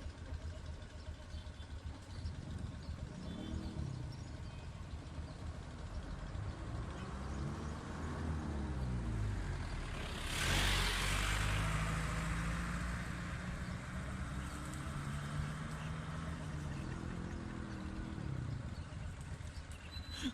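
Motor vehicles driving past, their engine notes rising and falling as each goes by. One passes close about ten seconds in with a loud rush that fades away.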